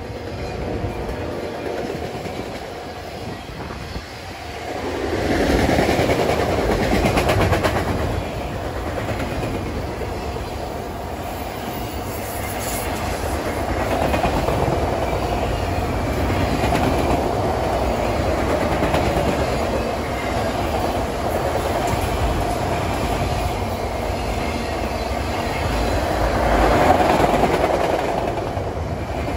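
Freight train of autorack cars rolling past, steel wheels clacking over the rail joints with a continuous rumble. It swells louder about five seconds in and again near the end.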